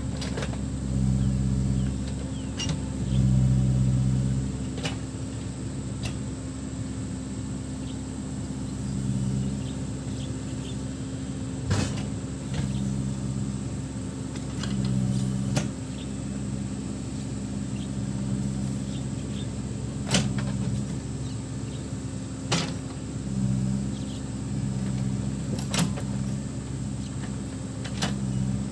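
Backhoe loader's diesel engine running, its drone swelling and easing every few seconds as the machine works. Sharp clanks are heard now and then, about ten times.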